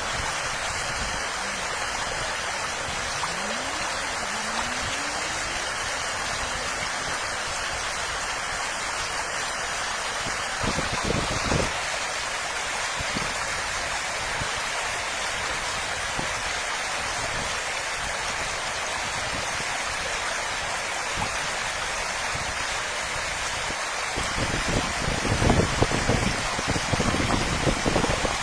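Steady rush of running water, like a stream. Near the end, low rumbling bumps come in over it.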